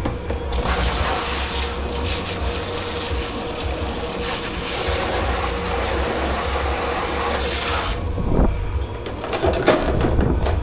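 Water spraying or gushing hard into a sink in a dish pit for about seven seconds, cutting off sharply, followed by irregular clattering knocks of dishware being handled.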